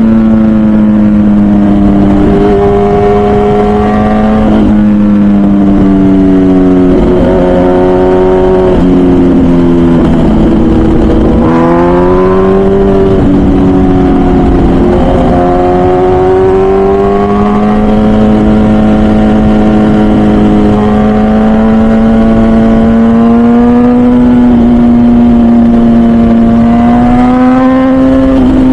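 MV Agusta Brutale 1000RR's 998cc inline-four through its full titanium Arrow exhaust, heard while riding: revs rising and falling with throttle and gear changes, dipping near the middle and then climbing sharply.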